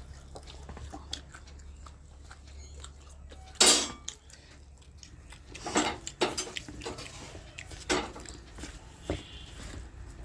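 Dishes and metal utensils clinking and clattering in scattered knocks, with the loudest clatter a little under four seconds in.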